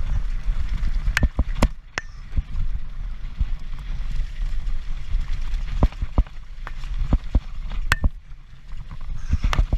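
Mountain bike descending rough ground at race speed: a steady low rumble of wind and tyre noise, broken by irregular sharp knocks and rattles from the bike. A few of the knocks ring briefly.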